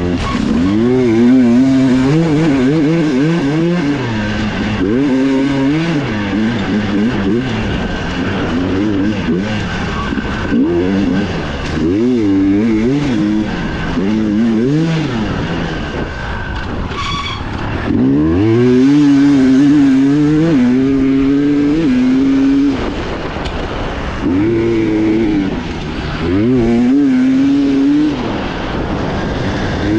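Dirt bike engine heard from the onboard camera, its revs climbing and dropping over and over as the rider accelerates, shifts and backs off along the trail.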